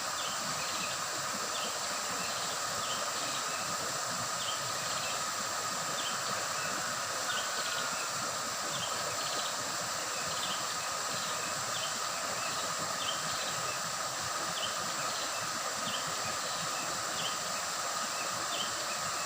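Stream water gurgling steadily over rocks, with a steady high insect drone and short chirps repeating about once or twice a second.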